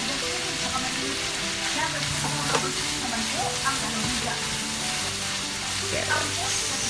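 Carrots and vegetables sizzling in a hot pan as they are stir-fried for pansit, with a steady frying hiss and a few light clinks of the cooking utensil against the pan.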